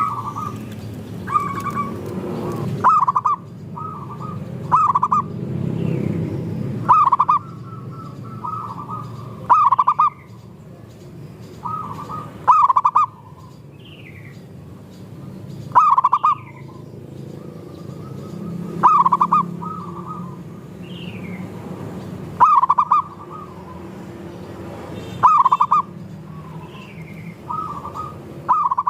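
Zebra doves cooing in their rhythmic, bubbly song. Loud phrases repeat about every three seconds, with faint high falling chirps from other small birds in between.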